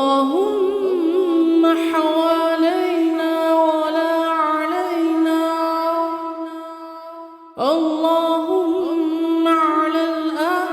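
A solo voice chanting an Arabic supplication (dua) in long, drawn-out melismatic phrases with wavering ornaments. One phrase fades out about seven seconds in, and a new one starts just after.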